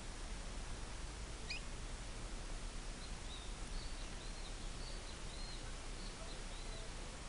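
Faint bird chirps over a steady background hiss: one sharp rising chirp about a second and a half in, then a run of about six faint, short, high notes.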